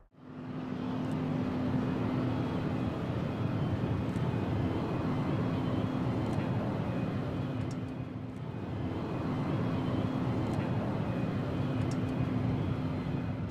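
Steady distant rumble of jet aircraft engines, with a low hum that drops out twice and returns.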